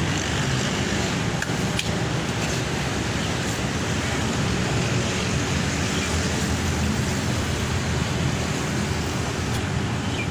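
Steady, even machine running noise with a low hum and no breaks.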